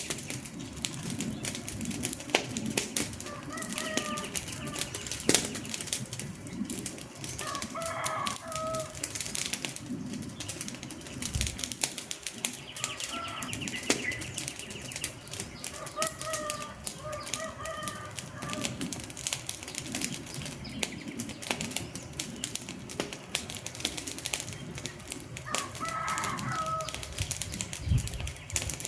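Wood fire crackling and popping steadily, with a few short bird calls in the background.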